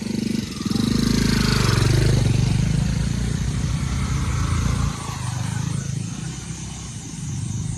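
Motorcycle engine running hard under load. It rises in pitch about a second in, then eases back a little before five seconds and runs on more quietly.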